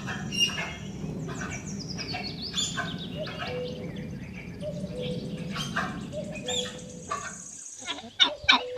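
Tapir calling with short, high-pitched whistles and squeaks, including a quick falling run of whistles a few seconds in.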